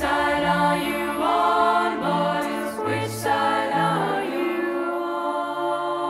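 Choir singing slow, held wordless chords over low cello notes that step from pitch to pitch about once a second.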